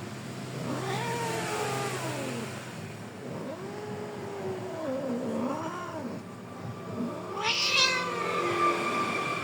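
Domestic cat yowling in long, drawn-out calls that bend up and down in pitch, three in a row, the last one louder and higher than the first two.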